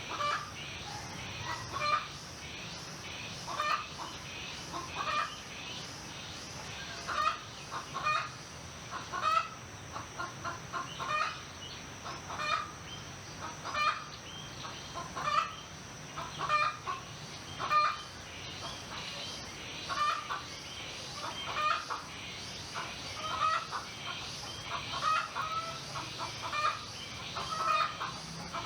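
Chickens clucking, a short call every second or two, over a steady high-pitched background tone.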